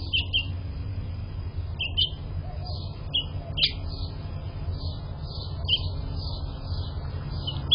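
House finches chirping: short high chirps every second or so, some in quick runs of two or three, over a steady low hum.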